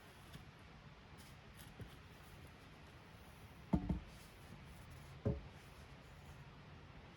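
Sharp knocks over a faint background: a quick double knock about four seconds in and a single knock about a second and a half later, each with a short hollow ring.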